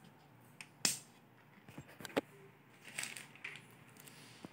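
Handling noise: a few sharp clicks and light scrapes, the loudest click about a second in and another about two seconds in, with soft rustling near three seconds.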